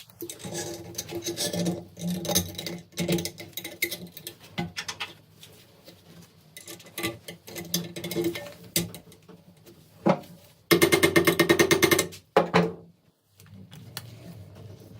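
Irregular clicks and knocks of hand work on small metal parts, then a fast rattling run of strokes lasting just over a second about two-thirds of the way in, the loudest sound here.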